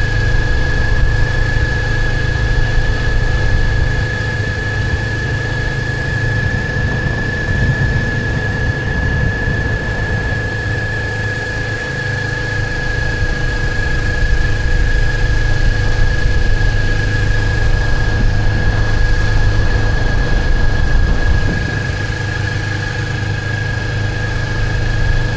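Motorcycle engine running during a ride, a steady low rumble with a high-pitched whine held over it.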